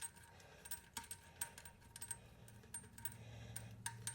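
Faint, scattered metallic clicks and clinks of the washers, nut and bolt of a toilet tank-to-bowl bolt being handled and fitted by hand.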